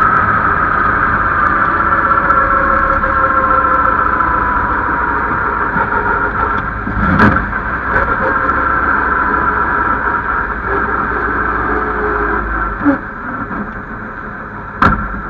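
Vintage Bentley racing car's engine heard from onboard, running steadily on the move, its note falling slowly over the first several seconds. A few sharp knocks come through, and the engine eases off near the end.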